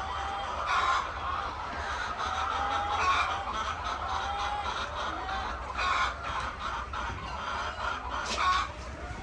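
A flock of chickens calling, many voices overlapping, with a few louder calls standing out about a second in, around three and six seconds, and near the end.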